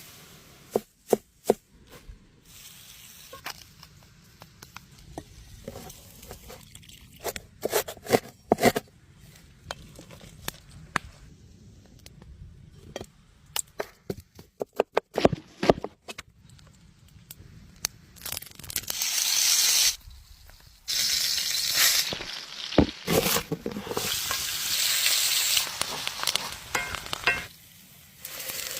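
Scattered clicks and knocks, then, from about two-thirds of the way in, loud sizzling in stretches: meat frying in a hot pan.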